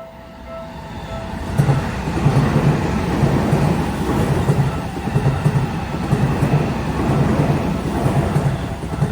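Seibu Ikebukuro Line train passing through a level crossing, loud from about a second and a half in, with its wheels clattering over the rail joints in a regular beat about twice a second. The crossing bell rings briefly at the start, before the train drowns it out.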